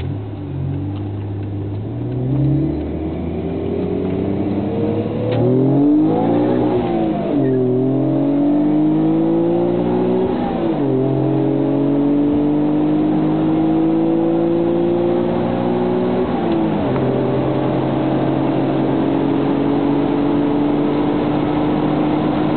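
Supercharged 1998 Ford Contour SVT's 2.5-litre V6 accelerating hard through the gears. The engine pitch climbs in each gear and drops at each upshift, about 3, 7, 11 and 17 seconds in, each gear's climb slower than the last.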